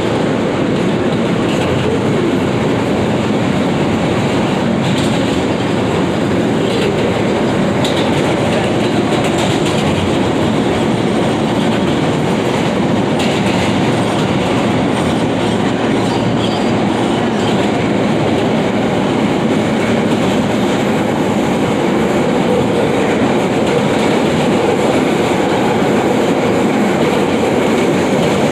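New York City subway F train running at speed between stations: a steady rumble and rattle of wheels on the rails, with faint clicks over rail joints.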